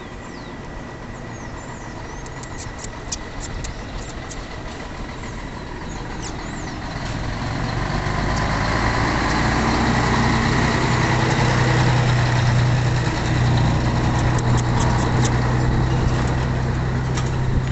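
A motor vehicle's engine running, growing louder about halfway through and then holding steady. Short high bird chirps sound over it in the first few seconds and again near the end.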